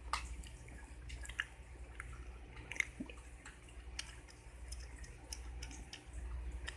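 Close-miked chewing of mint gum: irregular wet smacks and clicks of the gum in the mouth, a few each second, exaggerated on purpose.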